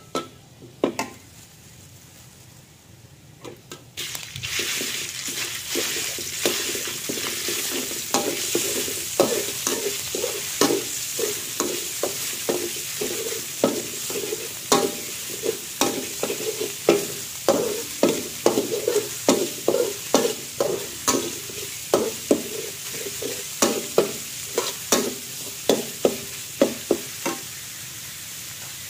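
Minced meat frying in a steel wok: a steady sizzle starts suddenly about four seconds in, as the meat goes into the hot oil and garlic. A metal spatula scrapes and taps against the wok many times as it is stir-fried, and the tapping stops near the end while the sizzle goes on.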